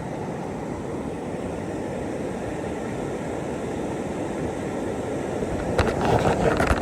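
Steady rush of a whitewater river, with a few sharp knocks near the end.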